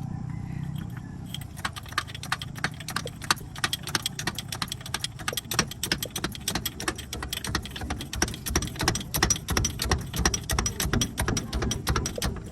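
Fast, irregular metallic clicking and rattling, starting about a second in, over a steady low hum.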